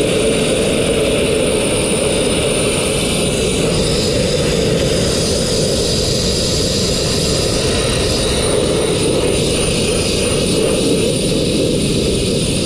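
Sandblaster blasting fine crushed-glass media, a loud steady hiss of air and grit from the nozzle that runs without a break.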